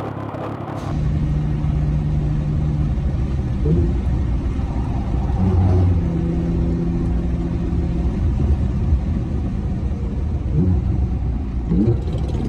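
A motor vehicle's engine running steadily under heavy road and wind rumble, with a few brief rising pitch sweeps. The sound changes abruptly about a second in.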